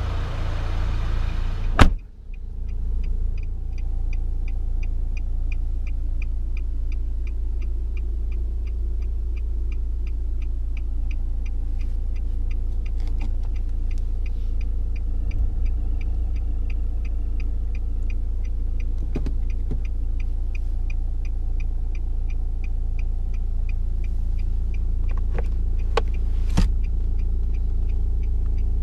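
2016 Nissan Juke's 1.5 dCi four-cylinder turbodiesel idling with a steady low rumble and a light, even ticking about three times a second. A single sharp knock comes about two seconds in.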